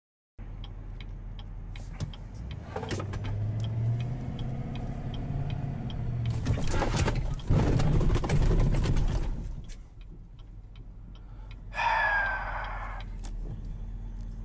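Car engine and road noise from a dashcam recording, with faint ticks about twice a second. The noise swells louder for a few seconds in the middle, and a brief shrill sound with a falling pitch comes about twelve seconds in.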